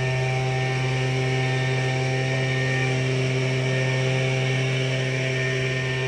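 Tractor engine running at a steady speed, a constant drone that holds the same pitch throughout.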